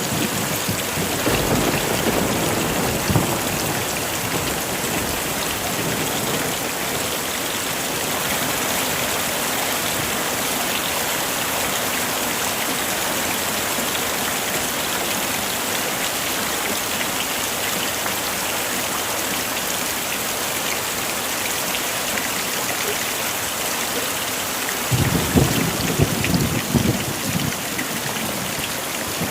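Heavy rain falling steadily, with low rumbles of thunder about a second in and again near the end.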